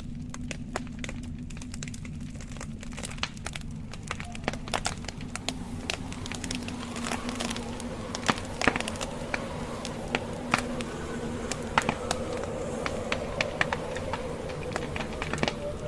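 Wood fire crackling, with irregular sharp pops and snaps that grow more frequent and louder from about halfway through, over a low steady hum.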